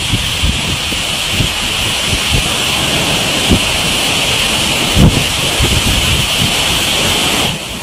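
Heavy rainstorm: a loud, steady hiss of downpour, with gusts of wind thumping irregularly on the microphone. The sound changes abruptly near the end.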